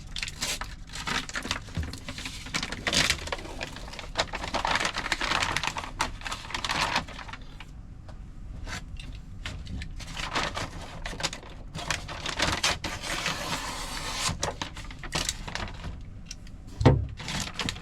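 Backing paper being peeled off a self-adhesive sound-deadening sheet and handled: irregular crinkling and rustling, with one heavy thump near the end.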